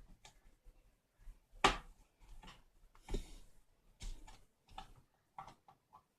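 Screwdriver tightening the screws that hold a replacement cooling fan inside an induction cooker: a few short scrapes and clicks, the loudest about a second and a half in.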